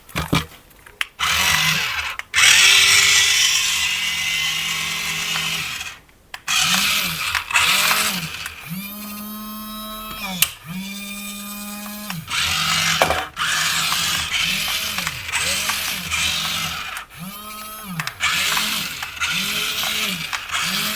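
Small electric motor of a remote-control toy whirring, sped up and let off again in repeated short pulses of rising and falling pitch, with a couple of longer steady runs.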